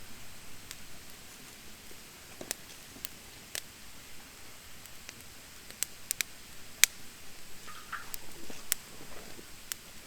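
Wood fire of damp, thin branches burning, crackling with irregular sharp pops over a faint steady hiss.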